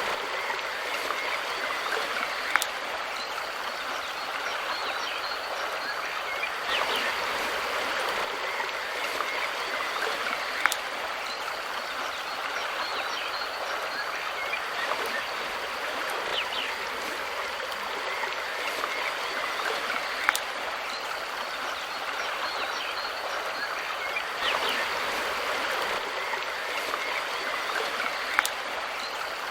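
Mountain river flowing, a steady rush of water, with a few brief bird chirps every several seconds and four sharp ticks scattered through.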